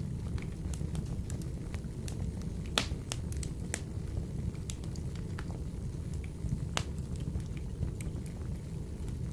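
Wood-burning stove fire crackling: irregular sharp pops and snaps over a steady low rumble of the burning logs, the loudest pop a little under three seconds in.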